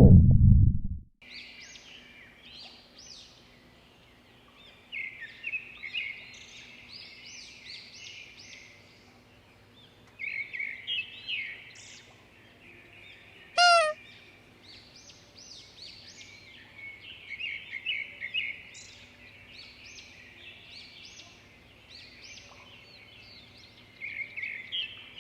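A low stomach rumble that cuts off about a second in. Then many short bird chirps and calls over a faint steady hum, with one loud falling whistle-like glide about halfway through.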